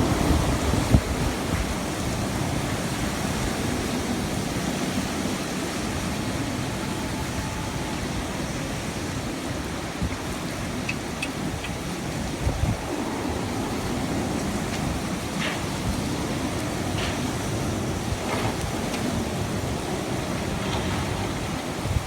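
Typhoon wind and heavy rain, a steady rushing noise, with gusts buffeting the microphone now and then and a few faint clicks.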